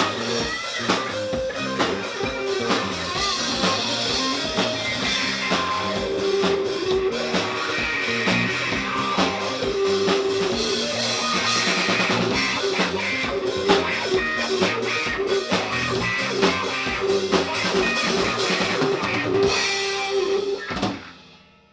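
Live band playing an instrumental passage on guitar and drum kit, with bass, that stops abruptly about a second before the end.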